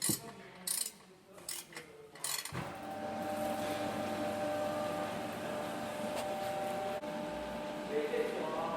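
A few sharp clicks from hand-tool work. Then, from about two and a half seconds in, a steady mechanical hum with a faint constant whine starts up and keeps running.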